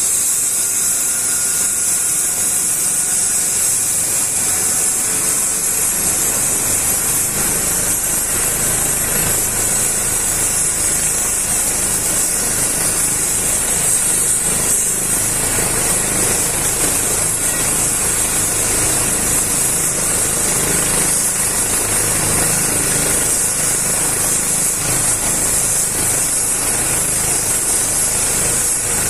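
Trauma helicopter running on the ground, its turbine giving a loud, steady high whine, with lower rotor noise joining about seven seconds in.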